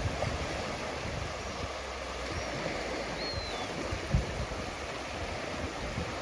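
Gentle ocean surf washing steadily on a beach, with wind buffeting the microphone and a sharper gust about four seconds in. A few faint, high whistling calls sound over it.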